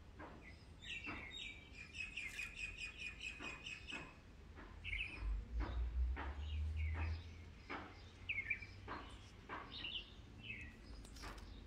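Wild birds calling: a run of quick repeated chirping notes for about three seconds, then short separate chirps. Scattered faint clicks and a low rumble about halfway through.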